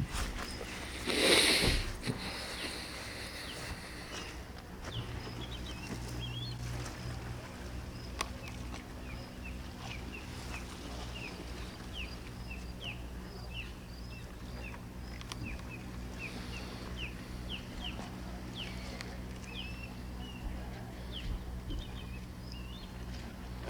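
Birds chirping: a long run of short, high chirps, two or three a second, over faint outdoor background noise. About a second in, a brief loud rush of noise sounds over it.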